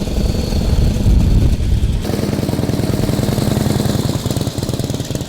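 Vintage motorcycle engines running. The sound changes abruptly about two seconds in, from a heavier rumble to a steady, rapid, even firing beat.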